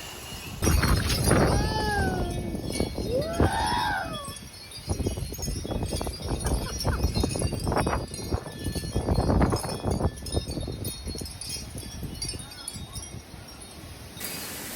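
Strong gusty wind buffeting the microphone with a heavy, uneven rumble. Wind chimes jingle in it. Two short calls that fall in pitch sound between about one and four seconds in.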